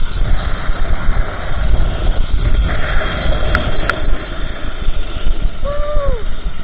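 Wind buffeting the microphone with a steady low rumble, the sound of riding down a zipline. There are two sharp clicks midway and a short falling pitched call near the end.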